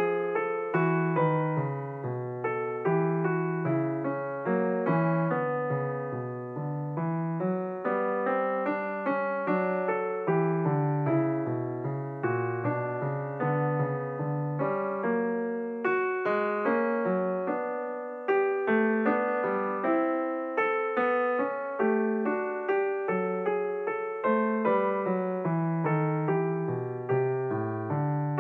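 Background piano music: a steady, unbroken flow of struck notes that ring and fade.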